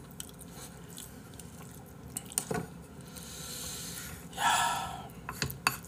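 Close-mic eating sounds of a person eating braised spicy chicken and rice: faint chewing with the odd small utensil click, and a brief breathy noise about four and a half seconds in.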